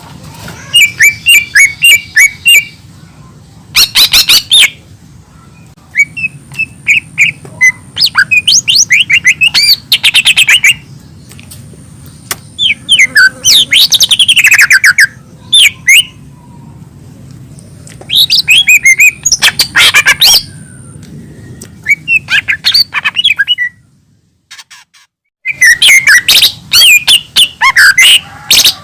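Cucak ijo mini leafbird singing a varied song of rapid chirps and sweeping whistled notes, delivered in bursts a second or two long with short pauses between, and a brief silence near the end before it sings again.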